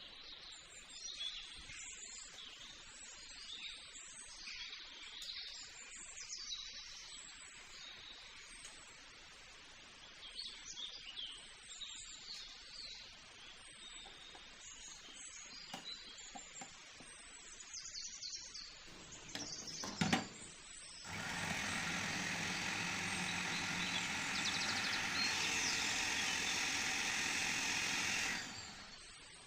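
Birds chirping in the background. About two-thirds of the way in there is a click, then an electric motor runs steadily and loudly for about seven seconds and cuts off suddenly.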